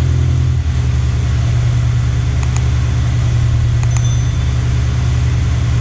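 Subaru BRZ's 2.0-litre flat-four boxer engine idling steadily through a freshly fitted JDL exhaust header, its idle note shifting slightly under a second in. A couple of faint light clicks sound midway.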